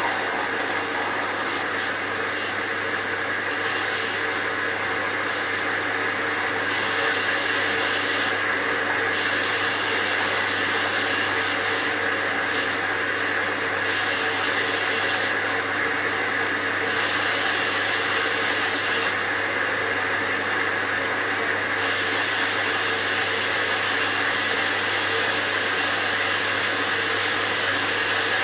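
Hoover VisionTech washing machine running loud and steady: a motor whine with several steady tones over a broad rushing noise and a low hum.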